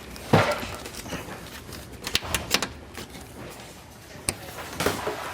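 One loud knock followed by a scattering of sharp clicks and taps, like small objects or tools being handled and set down.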